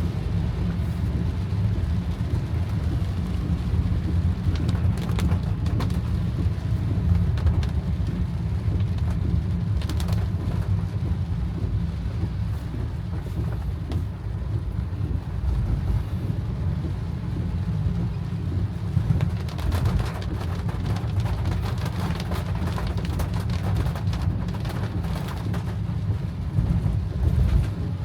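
Steady low rumble inside a moving car, with the hiss of heavy rain on the car.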